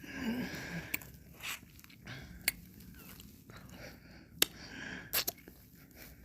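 Close-miked mouth sounds of someone eating ice cream: a drawn-out lick in the first second, then a scatter of sharp mouth clicks and smacks, two of them close together near the end.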